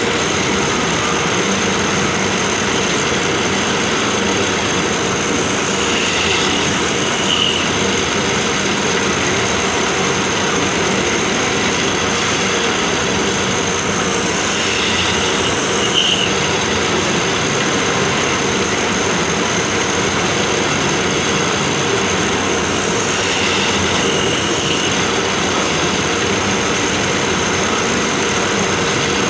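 Automatic drilling machine running steadily with a constant high whine. A short, brighter cutting sound comes three times, about every eight to nine seconds, as the machine cycles.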